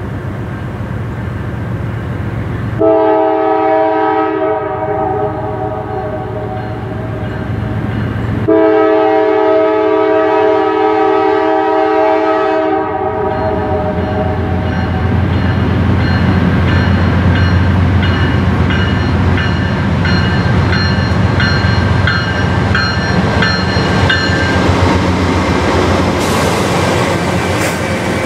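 Norfolk Southern freight train's diesel locomotive horn sounding two long chords, one after the other, as the train approaches. Then the low rumble of the diesel engines and wheels on the rails grows louder as the locomotives pass close by near the end.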